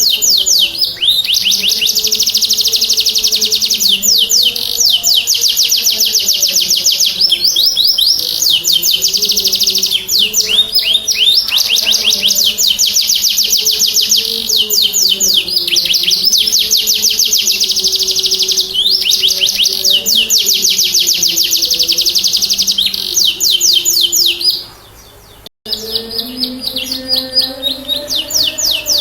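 Domestic canary in strong full song, singing long phrases of fast rolling trills one after another, with a brief break about 25 seconds in. A low wavering tone runs underneath.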